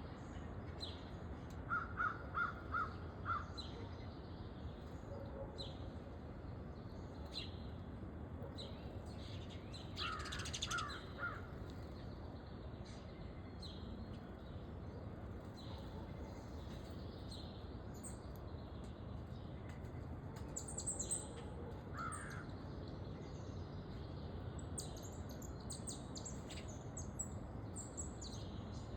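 Wild backyard birds calling. A run of five loud, evenly spaced calls comes a couple of seconds in, another cluster about ten seconds in, and a single call later on. Many short, high chirps from small birds are scattered throughout.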